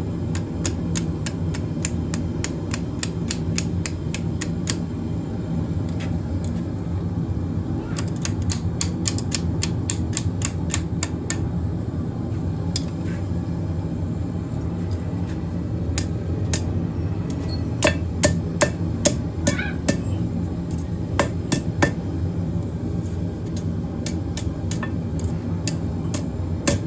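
Hammer blows on steel round stock on an anvil, in quick runs of about four strikes a second with pauses between, and a few louder single blows about two-thirds of the way through, over a steady low hum.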